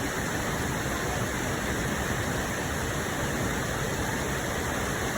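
Steady rush of water from a waterfall and flowing creek, running high after heavy rain.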